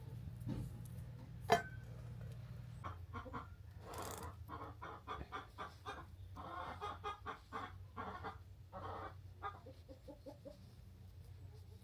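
Chickens clucking in runs of quick, repeated calls. A single sharp knock comes about one and a half seconds in.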